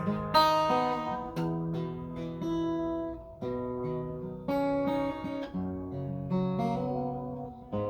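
Acoustic guitar strumming a chord progression without vocals, the chords changing about once a second.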